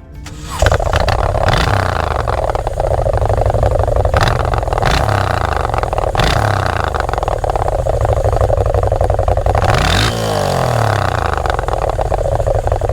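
Motorcycle engine running loud, with several sharp throttle blips and a rev that drops and climbs back up about ten seconds in.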